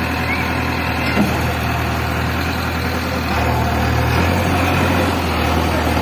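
JCB 3DX backhoe loader's diesel engine running steadily with a low hum, picking up a little about three seconds in.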